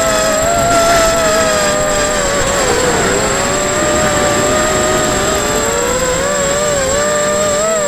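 Eachine Racer 250 quadcopter's motors and propellers whining, the pitch wavering up and down as the throttle changes, with a dip about three seconds in. Rushing wind noise sits underneath.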